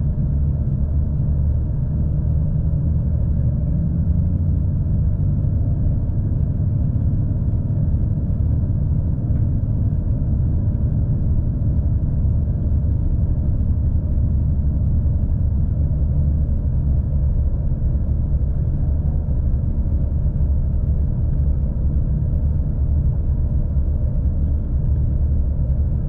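V/Line passenger train running at speed: a steady, even low rumble with no let-up.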